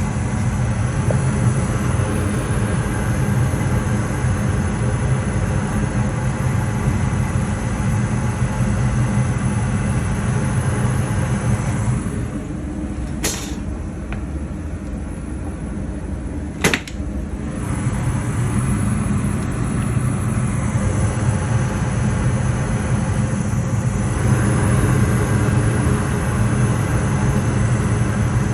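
Furnace running with a steady low noise. The noise eases off for a few seconds about halfway through, and two sharp clicks fall in that quieter stretch.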